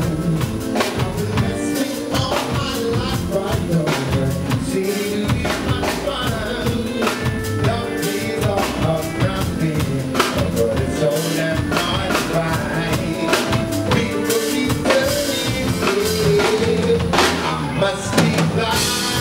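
Band music with a drum kit keeping a steady beat, guitar and bass, and a singing voice.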